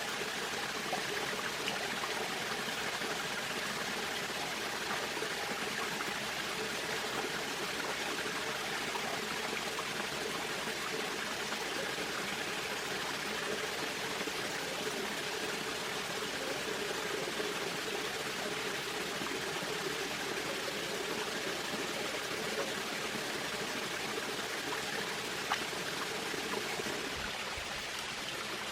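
Steady rushing of a flowing stream, dipping slightly near the end.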